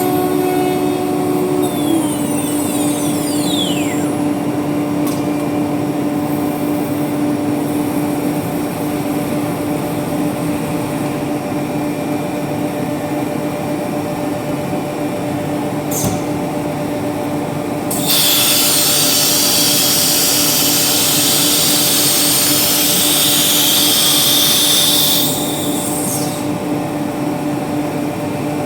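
ATC CNC router spindle running with a steady whine while machining a wooden door. About two-thirds of the way through, a much louder hissing rasp lasts some seven seconds as the bit cuts into the wood, then drops back to the steady whine.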